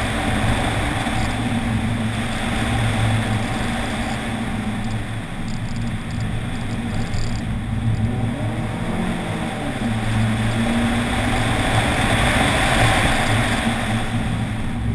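2007 Scion tC's 2.4-litre four-cylinder engine running hard through an autocross cone course, heard from outside the car. The revs drop for a moment about eight seconds in and then climb again as the car accelerates out.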